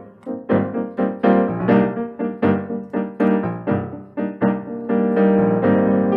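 Piano playing quick repeated chords in a lively rhythm, about four a second, giving way to held notes about five seconds in.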